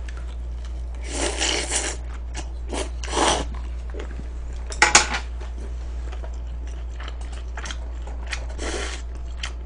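Close-miked eating sounds: a few short bursts of crunching and chewing, with a sharp click of dishes or utensils about five seconds in, over a steady low hum.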